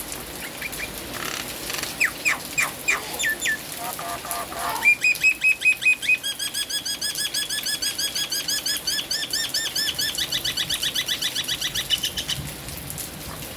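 Nias hill myna calling: a few short falling whistles and some lower notes, then a fast, even run of repeated ringing notes lasting about seven seconds. A steady hiss of rain lies under it.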